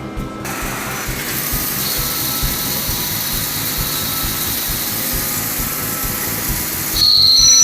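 CNC lathe cutting metal: a steady high hiss with an uneven low rumble beneath. Near the end it gets louder and a high-pitched whine of two steady tones sets in.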